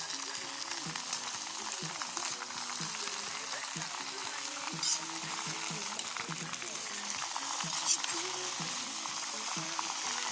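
Pork heart, potatoes and onion frying in oil in a kazan, a steady sizzle, with two sharp clicks about five and eight seconds in.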